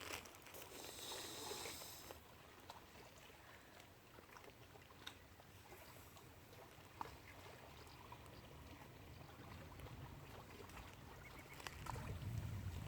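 Faint outdoor lakeside ambience: a brief high, buzzy sound in the first two seconds, then low background hiss with scattered small clicks, and wind rumbling on the microphone near the end.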